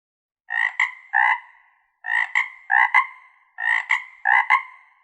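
A frog croaking in repeated bursts of two or three short rasping notes, about one burst every one and a half seconds, starting about half a second in.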